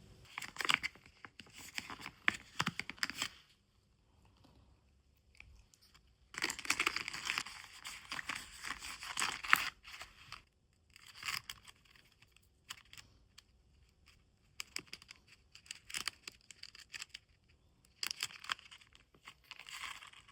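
Cured clear squishy resin being handled, giving sticky crackling, tearing sounds in irregular bursts, the longest a few seconds long about a third of the way in.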